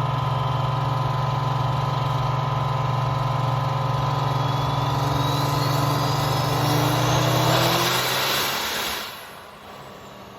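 Compound-turbocharged Cummins diesel truck making a full-power pull on a chassis dyno: a steady heavy engine drone with a turbo whine climbing in pitch, growing louder near the end, then the engine drops off suddenly about nine seconds in as the pull ends.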